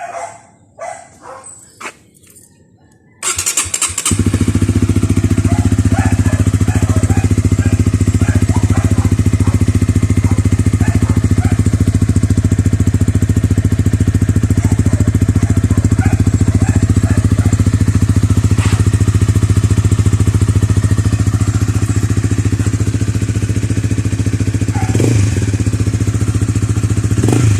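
Honda RS150 motorcycle's single-cylinder four-stroke engine, fitted with a Mody5 racing exhaust muffler, starting about three seconds in and then idling steadily. Two brief throttle blips near the end.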